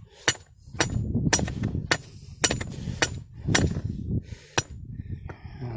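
Steel T-post being pounded into sandy soil: about nine evenly spaced metal-on-metal strikes, roughly two a second, stopping near the end.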